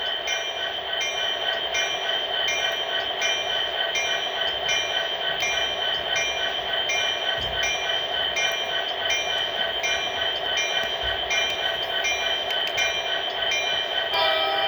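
The sound system of an MTH HO-scale SD70ACe model locomotive playing its diesel idle through the model's small speaker: a steady hum with an even pulse about twice a second.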